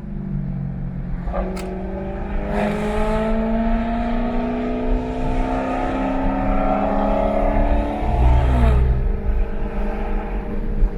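Maserati GranTurismo MC V8 with a high-merge F1-style exhaust pipe, accelerating. Its pitch climbs steadily for several seconds, then drops sharply about three-quarters of the way through as it shifts up, with a heavy low rumble, and runs on at lower revs.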